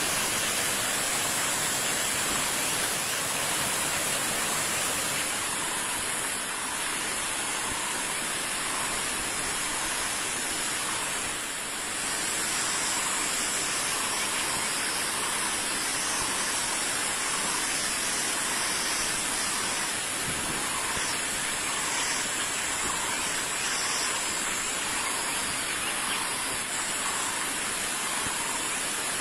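Steady loud hiss, with a bird's faint short calls repeating roughly once a second.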